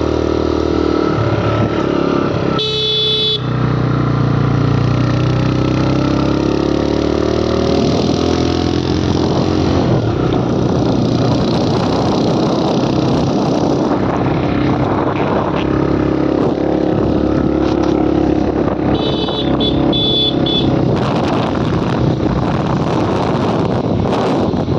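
Motorcycle engine running on the move, its pitch rising and falling with the throttle, with traffic noise around it. A vehicle horn beeps about three seconds in and again in a few short toots near the end.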